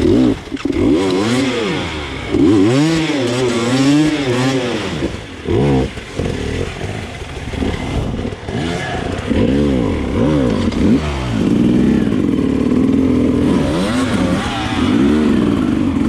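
Enduro dirt bike engine revving up and down with constant quick throttle changes, its pitch rising and falling every second or so, with a couple of brief drops partway through.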